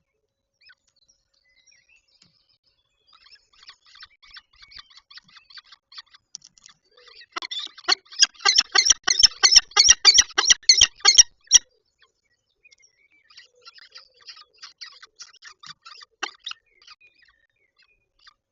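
Peregrine falcon calling: a rapid series of short, harsh calls, about four a second. The calls start faint, turn loud for a few seconds in the middle, then go on faintly again.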